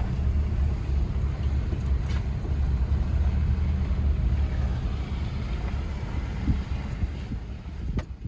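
Steady low rumble of a vehicle driving, heard from inside the cabin, with a sharp click near the end.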